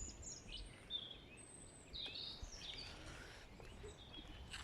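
Small birds chirping, with short high calls scattered through, over faint outdoor background noise.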